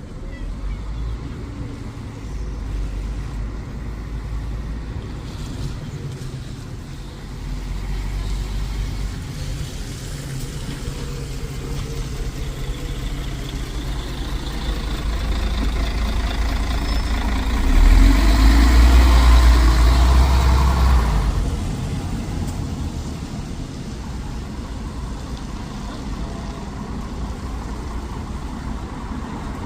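Road traffic running steadily, with one heavy vehicle passing close by, loudest from about 18 to 21 seconds in.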